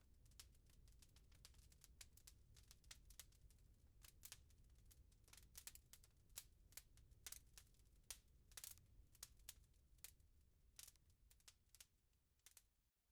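Wood fire crackling quietly: irregular small pops and snaps over a low rumble of flame. The sound drops out for a moment near the end.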